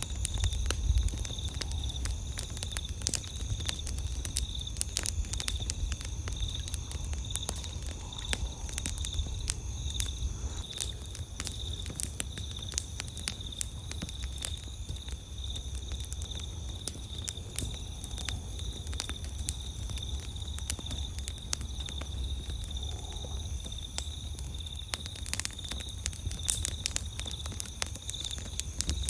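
Wood fire crackling, with frequent irregular sharp pops and snaps. Underneath runs a steady, high, finely pulsing trill of night insects.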